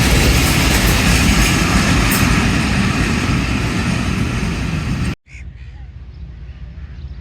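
Train passing close by: a loud, steady rumble and rail noise that cuts off abruptly about five seconds in, followed by a much quieter low hum.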